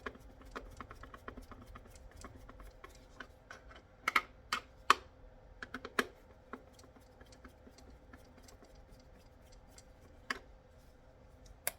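Small irregular plastic clicks and taps as a radio-control car transmitter's plastic case is handled and taken apart, with a few sharper knocks about four to six seconds in and near the end.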